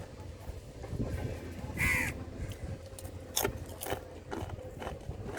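A crow gives one short, harsh caw about two seconds in, with a few sharp clicks or taps after it. A second caw starts at the very end.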